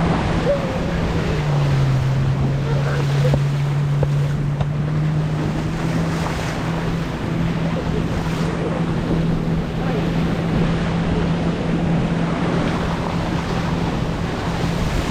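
Engine of the boat towing a banana ride, running at a steady drone whose pitch dips for a few seconds early on and then comes back up, with wind buffeting the microphone and water rushing past.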